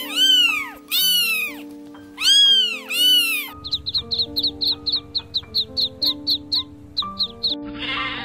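A domestic cat meowing four or five times, with long falling calls. Then a hen clucks in a quick run of short, high notes, about five a second. A sheep begins to bleat near the end. Background music plays throughout.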